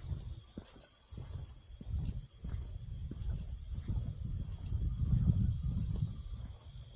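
Steady high-pitched insect chorus, with a low rumbling noise underneath that swells about five seconds in.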